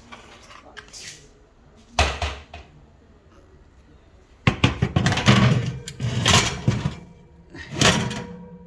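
A tray of chicken being put into an oven: a sharp knock about two seconds in, a run of clattering and rattling from about halfway, and another loud knock near the end.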